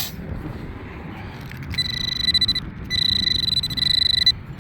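Nokta Accupoint pinpointer sounding a high-pitched, fast-pulsing alert in two stretches, a short one and then a longer one, as it sits over a buried metal target. Wind rumbles underneath.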